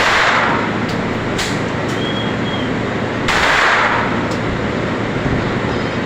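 Gunfire at a shooting range: two loud shots about three seconds apart, one at the very start and one just past three seconds in, each ringing out briefly, with fainter sharp cracks from other shots in between, over a steady background noise.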